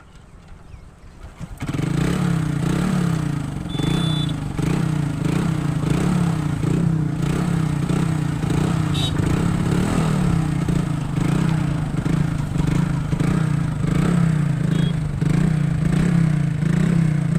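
A motorcycle engine catches on a kick-start about a second and a half in, then runs steadily at idle. Its note rises and falls in a regular pulse, about one and a half times a second.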